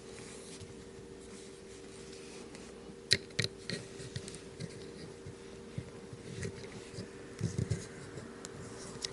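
Small clicks and light taps of a folding knife's parts and tools being handled during reassembly, with two sharp clicks about three seconds in and scattered taps after. A steady low hum runs underneath.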